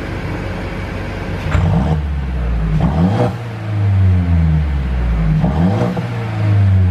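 Mercedes-Benz W205 C200's turbocharged four-cylinder engine revved three times, the pitch rising and falling with each rev, with sharp pops from the exhaust around each rev from a pop-and-crackle tune.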